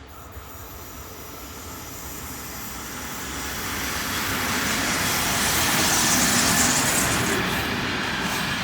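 A train approaching on the track, its rumble and rail noise growing steadily louder and loudest about six to seven seconds in.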